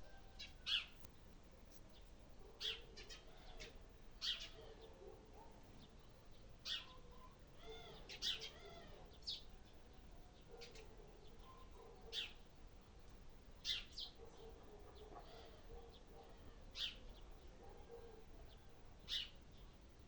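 Birds calling: short sharp chirps repeating every second or two, with softer, lower chirping underneath. Faint.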